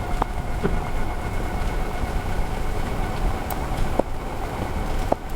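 Tuttio ICT 2.0 electric dirt bike ridden at speed: a steady whine from its geared hub motor over heavy wind rumble on the microphone, with a few light ticks.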